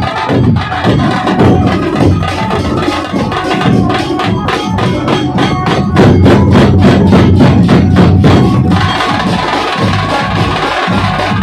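A dhol pathak drum troupe playing loud, dense drumming on dhol drums, with a steady run of sharp, evenly spaced strokes from about four seconds in that gives way to a busier texture about three quarters of the way through.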